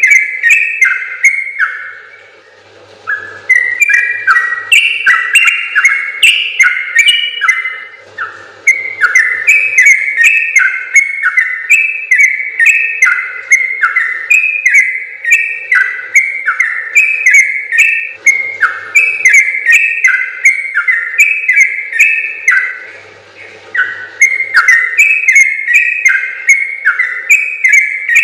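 Yellow-vented bulbul (trucukan) singing long runs of quick, bubbling whistled notes, its rapid 'ropel' song. Short pauses come about 2, 8, 18 and 23 seconds in.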